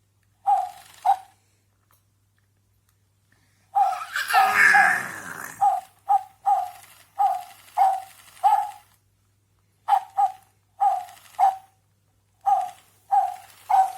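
Repeated short, high barks like a small dog yapping, coming in twos and threes. About four seconds in, a baby squeals and laughs over them.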